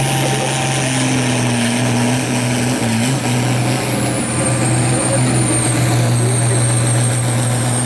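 Hot farm pulling tractor's turbocharged diesel engine running steadily, with a high turbo whistle that climbs and then settles lower.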